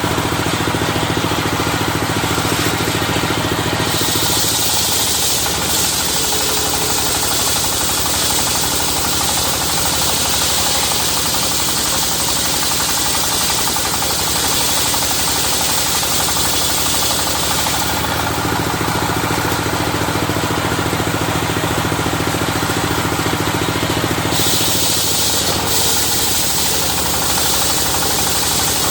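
Engine-driven circular sawmill running steadily with a knocking engine as its blade rips through a dadap log. A loud high hiss comes and goes in two long stretches, the second starting a few seconds before the end.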